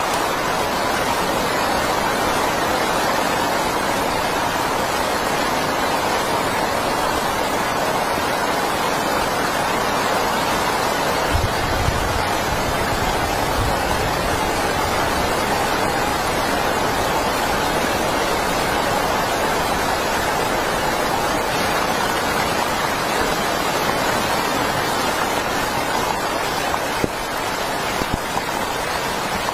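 Heavy rain falling in a steady, dense hiss, with a brief low rumble about twelve seconds in.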